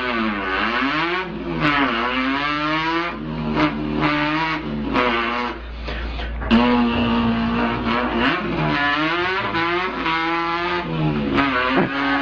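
A man imitating an import car's engine with his voice: a buzzing, engine-like drone that climbs in pitch and drops back again and again, like revving up through the gears with shifts between.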